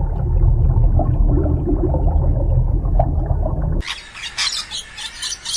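Short squawking animal calls over a heavy low rumble, cut off abruptly about four seconds in by rapid high bird chirping.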